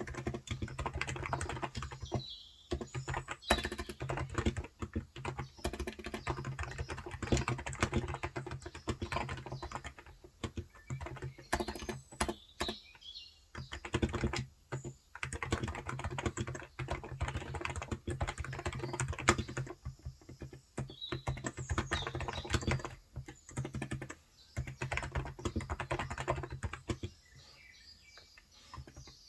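Typing on a Cox Endeavor electro-capacitive tenkeyless keyboard with 35 g switches: quick runs of keystrokes broken by short pauses, thinning out near the end. A few bird chirps come through between the keystrokes.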